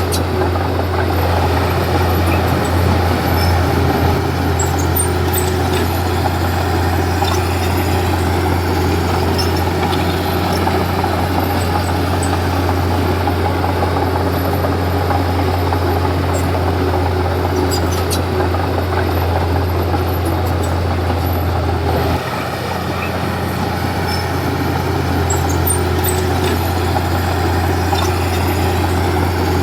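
Komatsu D31P bulldozer's diesel engine running steadily under load, a deep continuous drone. About two-thirds of the way through it eases off briefly, then builds back up.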